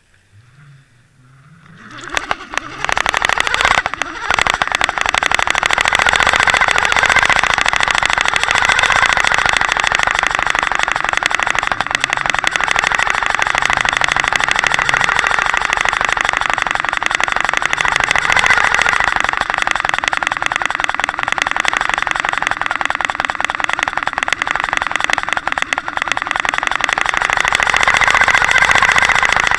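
Steady rushing noise picked up by a Water Wolf underwater camera towed on a trolling line, with the towing craft's motor heard through the water. It comes in about two seconds in.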